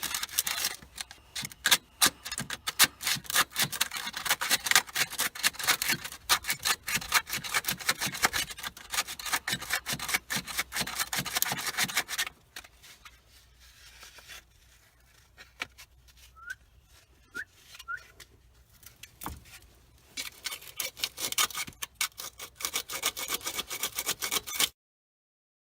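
Hand sanding with sandpaper on part of an alternator, quick rasping back-and-forth strokes. The sanding stops for several seconds past the middle, picks up again, and cuts off abruptly near the end.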